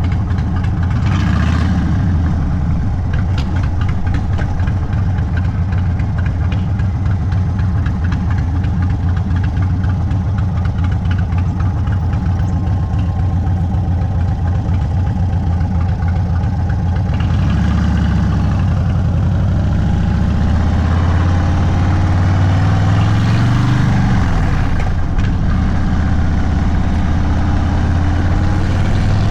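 Stage 2 Indian Sport Chief's Thunderstroke 116 V-twin running through a Sawicki Speed exhaust, turning over steadily at low revs. About two-thirds of the way through, its note climbs and falls back a few times as the throttle is opened and closed.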